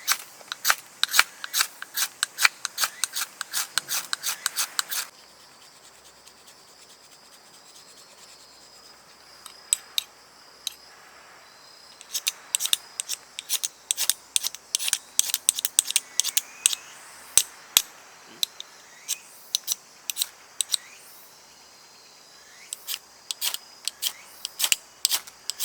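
Wood fire crackling: irregular sharp snaps and pops, thick for the first five seconds, then sparser with a few faint whistles. Conifer firewood, which crackles a lot, is on the fire.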